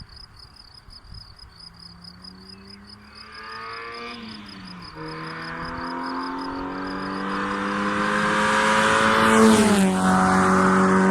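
Opel Manta B's C20XE 2.0-litre 16-valve four-cylinder, breathing through a homemade 55 mm exhaust with a 200-cell catalyst, accelerating past: the revs climb, dip briefly about four seconds in, then climb again, growing louder as the car approaches, and the pitch drops sharply as it passes near the end.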